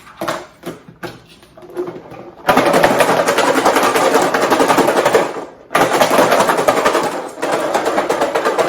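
Garlic cloves shaken hard inside a closed container to loosen their skins: fast, dense rattling that starts about two and a half seconds in, stops briefly around the middle, then starts again. A few light knocks of handling come before it.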